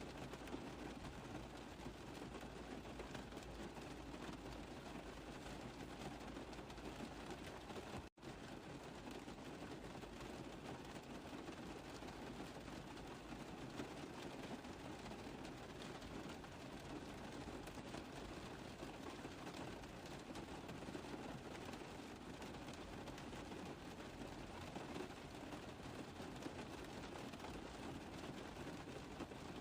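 Rain tapping steadily on a car roof, a dense even patter of drops. The sound cuts out for an instant about eight seconds in.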